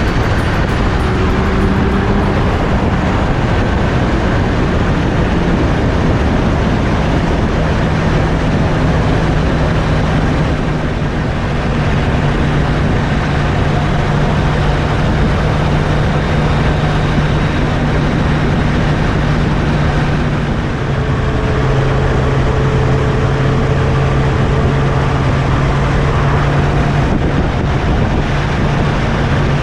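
Kawasaki Z1000SX inline-four engine running at a steady cruise, under heavy wind rush on the microphone while riding. The engine note shifts slightly in pitch a few times.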